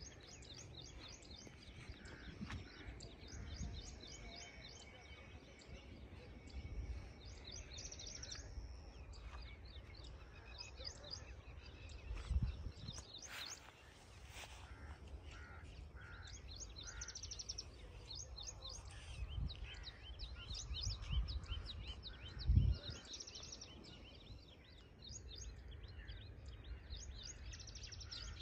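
Small birds chirping in quick series of short, high notes, over a steady low outdoor rumble with a few louder low thumps.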